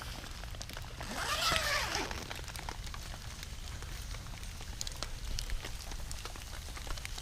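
Rain falling, with many separate drops ticking on a surface over a steady low hiss. A louder, brief swish comes through about a second in.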